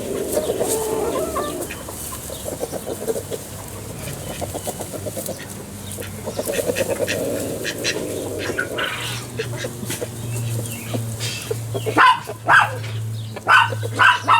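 Backyard chickens clucking contentedly, happy chicken noises, with several louder, sharper calls near the end. A low steady hum comes in about nine seconds in.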